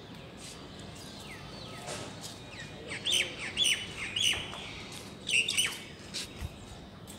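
A bird calling: short, quick chirps that slide downward in pitch, three in a row from about three seconds in, then another pair a little over a second later.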